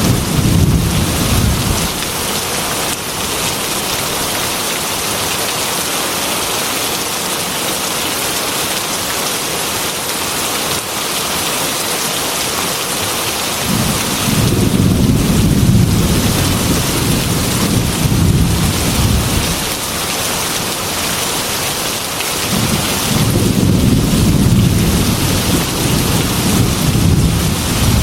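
Heavy rain hissing steadily, with rolling thunder rumbling twice: a long peal about halfway through and another near the end, after the tail of an earlier rumble fades in the first two seconds.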